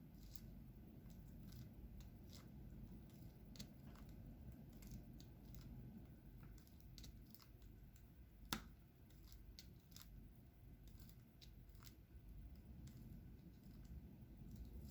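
Faint, irregular little clicks and taps of diamond painting: the drill pen picking up resin drills and pressing them onto the sticky canvas, with one sharper click past the middle.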